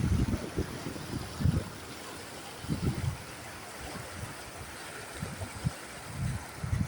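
Running water, like a small stream, with irregular low rumbles of wind buffeting the microphone.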